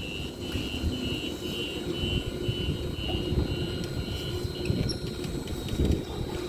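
Muni Metro light-rail car's door warning beeping, a high tone about two to three times a second, over the low rumble of the train at the underground platform. The beeping stops near the end.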